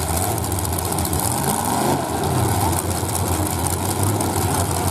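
Demolition derby car engines idling steadily, a low, even engine hum with no crashes.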